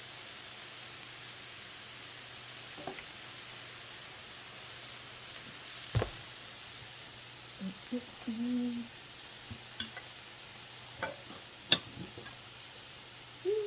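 Meat sizzling on a tabletop grill, a steady hiss, with a few sharp clicks and knocks of utensils against the grill or dishes, the loudest about six seconds in and near the end.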